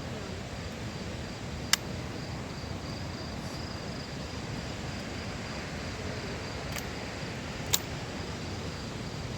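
Night ambience: a steady hiss with faint, continuous high-pitched cricket chirping. Two sharp clicks come about six seconds apart, one near the start and one near the end.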